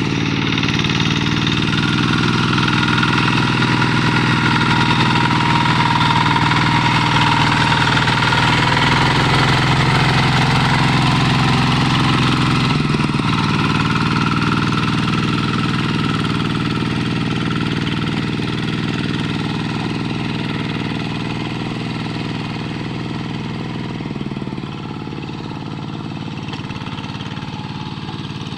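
Paddy-field tractor's engine running steadily under way, its pitch dropping a step about halfway through and its level falling slightly near the end.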